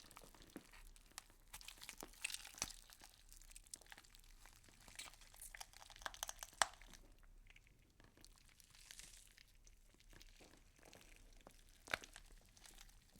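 Faint, irregular crackling and crinkling, made of many small clicks with a few sharper cracks, the loudest about six and a half seconds in and another near twelve seconds.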